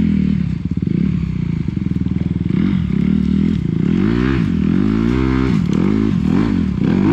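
Dirt bike engine running hard, steady at first, then revving up and down several times in quick succession from the second half on.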